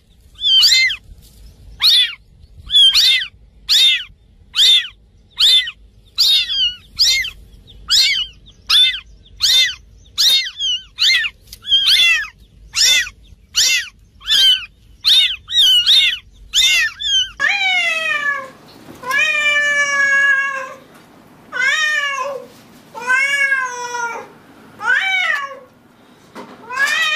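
Domestic cats meowing: a quick run of short, high meows, about one every 0.7 seconds. About 17 seconds in, this gives way to longer, drawn-out meows and then a few shorter ones.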